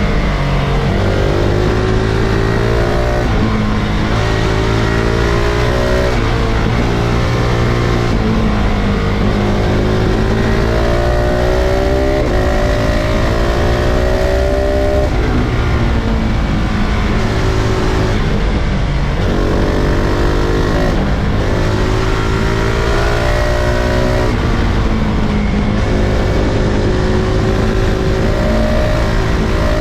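KTM 690 SMC-R's single-cylinder LC4 engine under hard riding: it revs up again and again, its pitch climbing, then dropping back at each gear change or when the throttle is shut, before pulling up again.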